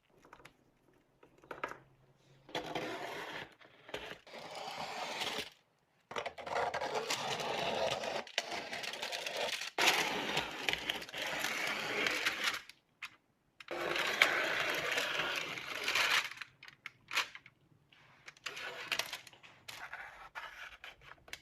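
Scraping or abrasive rubbing in several bursts, each lasting from about one to six seconds, with the longest in the middle and shorter, fainter strokes near the end.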